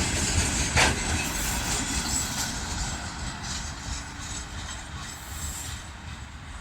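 Freight train wagons rolling on the rails, wheels clattering, with one sharp knock about a second in. The sound fades steadily as the train moves away.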